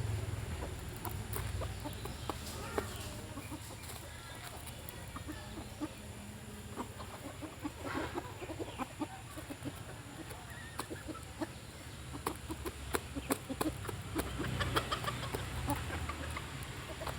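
Chickens clucking while feeding on scattered raw rice, with many short, quick taps throughout.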